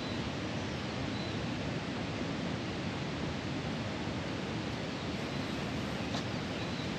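Steady, even outdoor rushing noise, with a few faint high chirps about a second in and again near the end.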